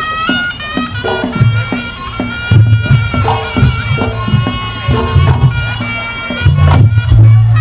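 Reog Ponorogo ensemble music: a slompret, a double-reed shawm, plays a nasal, wavering melody over steady drumming, with heavy low booming strokes coming in about two and a half seconds in and again near the end.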